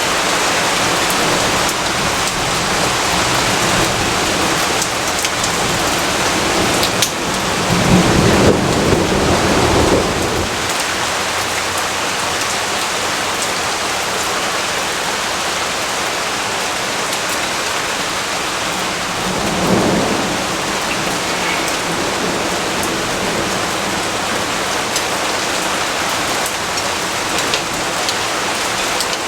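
Steady heavy rainfall with thunder: a low rolling rumble swells about eight seconds in and lasts a few seconds, and a shorter, fainter roll comes near the middle.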